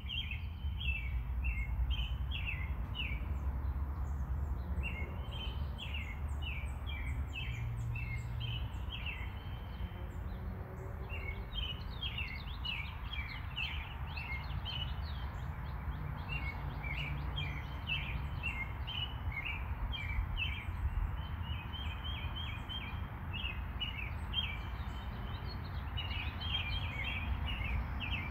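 Small birds chirping in quick, irregular runs of short high notes, over a low steady rumble.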